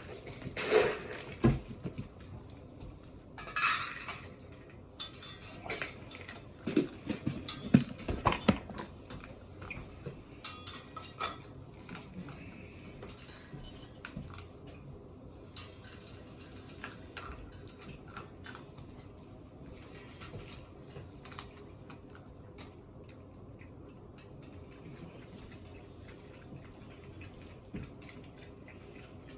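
Dishes and cutlery clinking and clattering as they are handled and washed. The loudest clatters come in the first nine seconds or so, then fainter scattered clinks follow.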